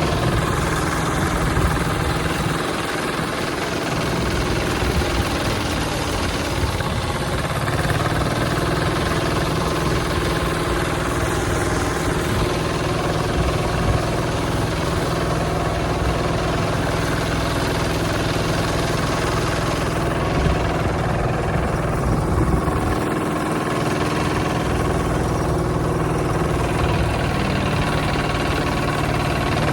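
Hand tractor engine running steadily.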